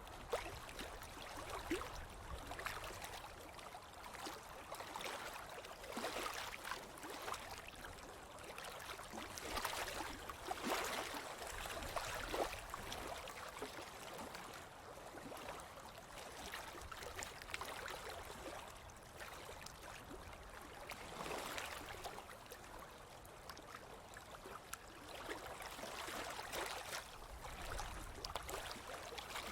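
Ocean waves washing onto a beach, the hiss of water rising and falling in swells every few seconds.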